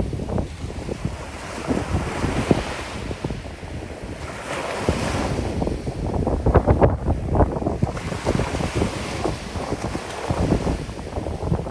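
Strong wind buffeting the microphone over the steady wash of sea waves on a sandy beach, with rumbling, uneven gusts.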